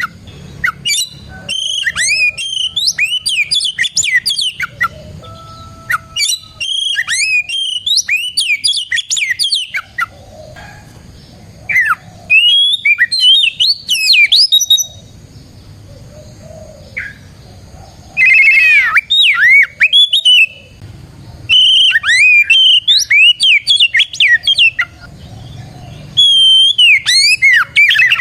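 Oriental magpie-robin (kacer) in full song: rapid phrases of varied whistled notes, sliding glides and trills, broken by short pauses of a second or two.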